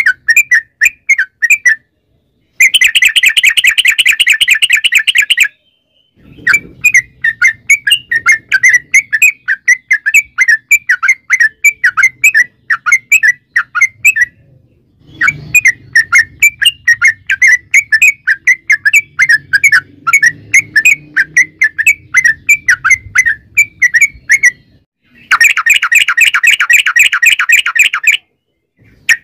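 Yellow-vented bulbul (trucukan) singing: long runs of quick chattering notes, about four a second, broken by two very fast continuous trills, the long roll known as 'ropel panjang', near the start and near the end.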